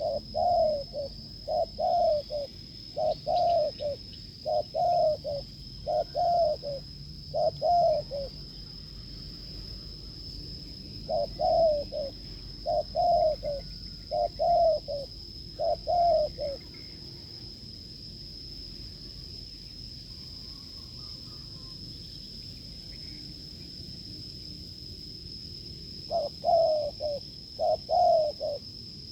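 Spotted dove cooing: series of short, low coo notes about a second apart in three bouts, the last near the end. A steady high-pitched whine runs underneath throughout.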